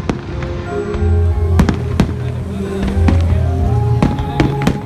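Fireworks going off in sharp bangs and crackles over loud music with a heavy bass.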